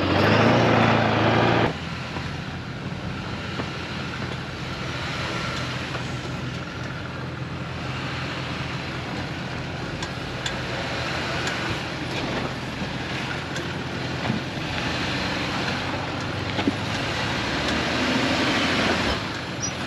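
Ford F-350 pickup's engine running at low speed as the truck crawls a rocky off-road trail. It is louder for the first couple of seconds, then steady, with a few small knocks along the way.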